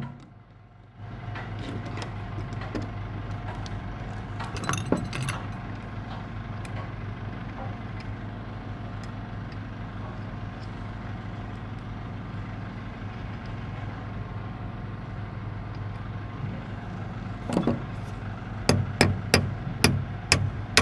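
Steady low engine hum with scattered metallic clinks, broken by a short dip about a second in. Near the end comes a quick run of sharp metal knocks, about two a second.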